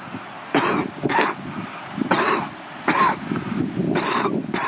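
A man coughing repeatedly: about six short, harsh coughs, roughly half a second to a second apart.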